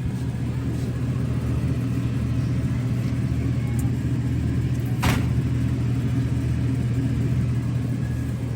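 Steady low mechanical rumble with one sharp click about halfway through.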